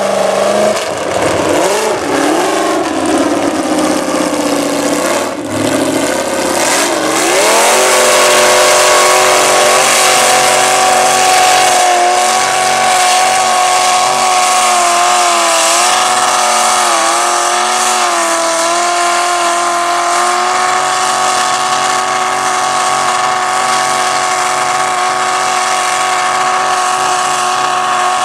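Mud bog truck's engine revving hard, its pitch rising and falling for the first several seconds, then climbing and holding high, near-steady revs under full throttle with brief small dips.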